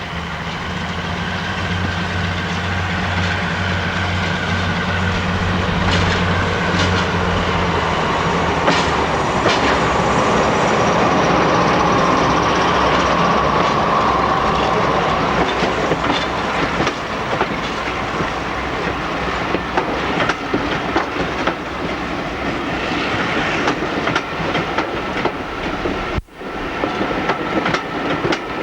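A diesel train running past. A heavy, steady engine throb dominates the first several seconds, then the wheels clatter over the rail joints as the train rolls by. The sound cuts out for an instant near the end.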